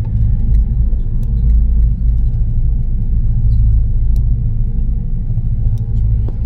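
Steady low rumble of an OceanJet fast ferry's engines under way, with a faint steady hum above it.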